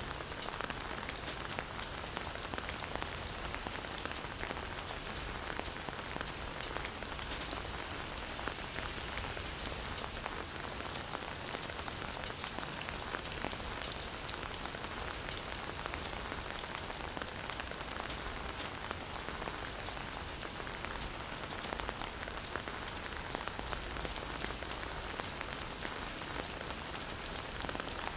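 Heavy rain falling steadily, a dense even hiss flecked with the ticks of individual drops.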